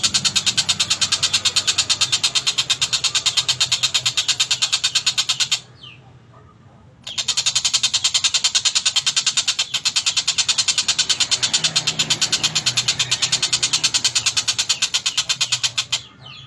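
Oriental dollarbird (tengkek buto) giving a fast, harsh chattering call of about eight rasping notes a second. It breaks off for about a second and a half near the middle and briefly near the end.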